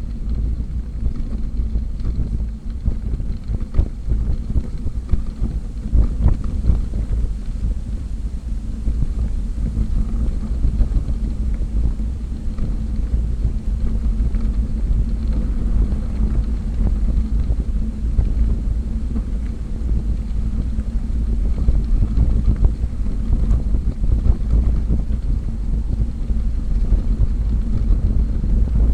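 Wind rumbling and buffeting on the microphone of a camera on a moving bicycle, steady and gusty throughout.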